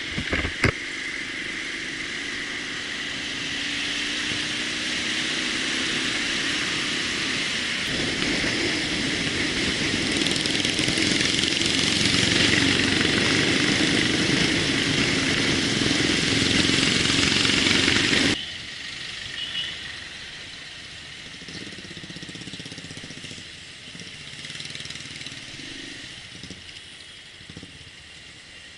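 Motorcycle being ridden on the road: engine hum under a rushing wind noise that grows louder as it picks up speed, then drops suddenly about 18 seconds in to a quieter, steadier run. Two sharp clicks just after the start.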